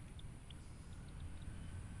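Faint outdoor lake ambience: a few short, high bird chirps in the first half-second and a few fainter ones around a second in, over a low steady rumble.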